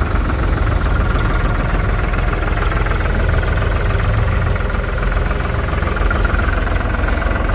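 Diesel engine of a tractor or backhoe loader idling steadily, a loud low throb that holds even throughout.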